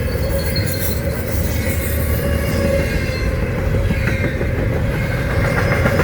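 Freight train cars rolling past at speed: a steady rumble of steel wheels on rail with clattering over the joints and a faint thin wheel squeal.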